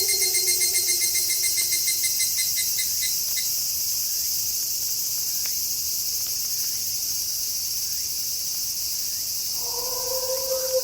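Night chorus of crickets and other insects, a steady high shrill with a rapid pulsing chirp over the first few seconds. A wolf howl slides down in pitch and fades out about two seconds in, and another long howl begins near the end.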